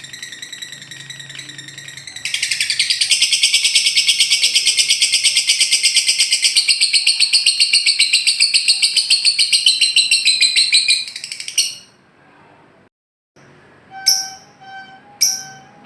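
Lovebird ngekek: a long, loud, rapid chattering trill at about ten notes a second, holding for around nine seconds before stopping abruptly. It is preceded by a softer trill, and a few sharp short chirps follow near the end.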